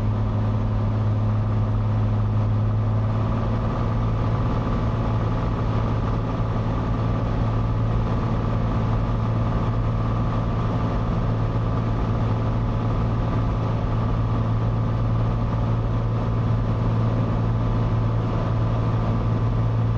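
Cessna 182's piston engine and propeller as heard inside the cabin: a steady, even drone in cruise-pattern flight, with no change in power.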